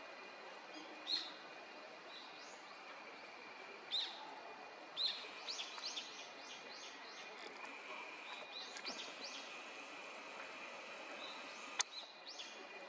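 Small songbirds chirping: single short chirps about one and four seconds in, then a quick run of chirps, with a sharp click near the end.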